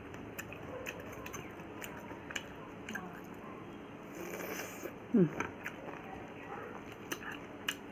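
Close-up mouth sounds of someone eating: chewing and biting with small crunches and clicks. About five seconds in, a short falling vocal hum is the loudest sound.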